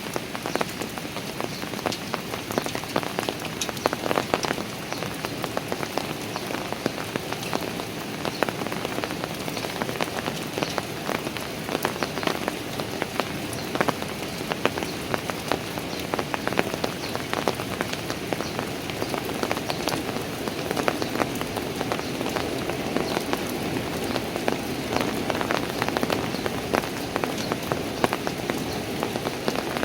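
Steady rain falling on park stairs, with many close drops tapping and splashing.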